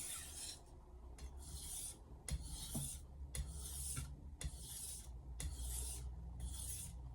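Misono 210 mm Japanese kitchen knife blade being stroked across a whetstone: a regular run of short hissing scrapes, about one a second.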